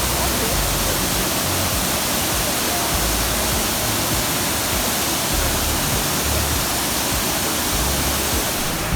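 Waterfall: water pouring down in a steady, dense rush.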